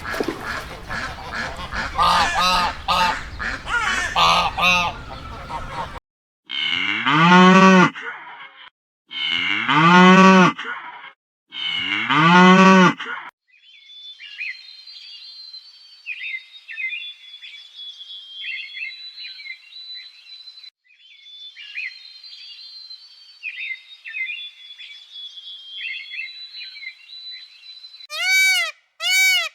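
A cow mooing three times, each a long low call that rises and falls in pitch, after a few seconds of busy honking and calling from fowl. Then comes a stretch of thin, high, repeated peeping, and a run of short calls near the end.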